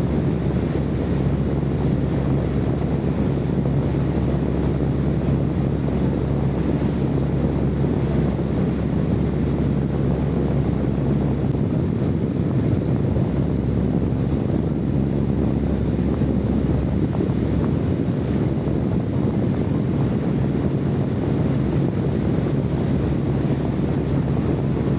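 Steady low rushing noise with a constant low hum underneath, even and unchanging throughout, recorded live as sleep noise.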